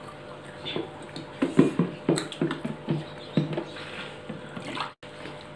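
Close-up eating sounds: chewing and lip-smacking with a run of short soft clicks and knocks, busiest in the middle stretch, over a faint steady hum.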